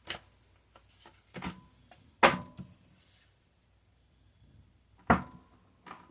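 Tarot cards being handled and set down on a table: a few sharp slaps and taps. The loudest comes about two seconds in and another about five seconds in, with a quiet stretch between.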